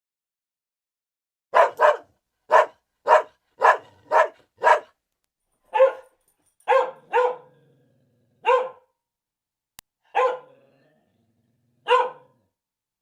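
A dog barking: a run of short barks about every half second, some in quick pairs, that slows to one bark every second or two.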